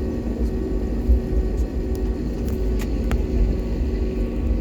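Jet airliner cabin noise heard from a passenger seat while the plane taxis after landing: a steady low rumble with a constant hum from the engines and air system. A couple of faint clicks come about three seconds in.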